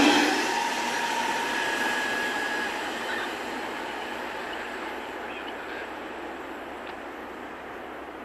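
A freight train of loaded open coal wagons rolling away along the track, its wheel-on-rail rumble fading steadily into the distance. The sound cuts off suddenly at the end.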